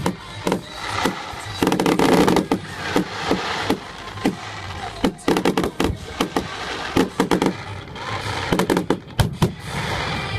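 Fireworks display: aerial shells bursting in a rapid, irregular series of sharp bangs, some coming in quick clusters.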